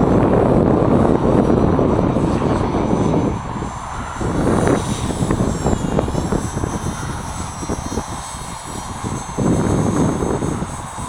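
Gaui Hurricane 255 RC helicopter in flight, its motor and rotor whine high-pitched and shifting slightly in pitch, under heavy wind buffeting the microphone in gusts that swell and drop every few seconds.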